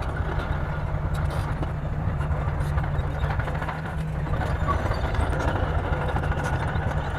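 Bulldozer's diesel engine running steadily, a continuous low drone, with faint scattered clicks over it.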